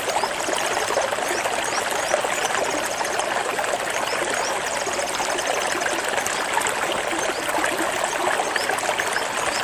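Steady sound of flowing stream water, running and trickling without a break. Faint, high, rapid trilled notes come through it every second or two.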